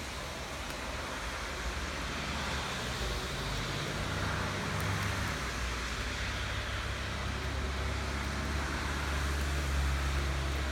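Steady rain falling, with a low rumble of road traffic underneath that swells and eases twice.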